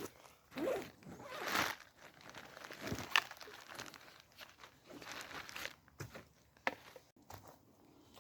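Irregular rustling and crinkling handling noises, broken by a few sharp clicks.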